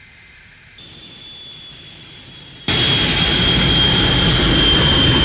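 Combat jet aircraft's engine running with a steady high whine over a rushing noise. It gets a little louder about a second in, then abruptly much louder about two and a half seconds in.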